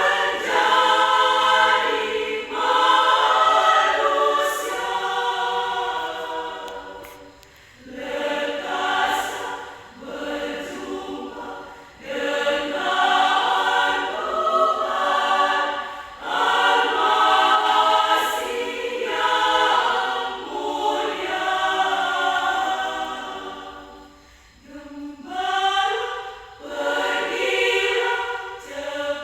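Women's choir singing a cappella in phrases, with short breaths between phrases.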